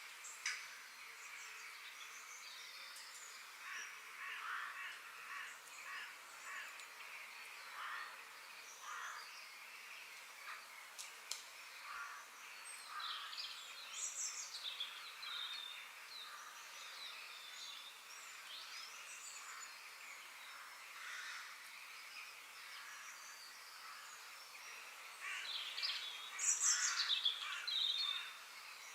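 Birds chirping and calling, many short scattered calls over a faint steady background hiss. A louder flurry of rapid calls comes near the end.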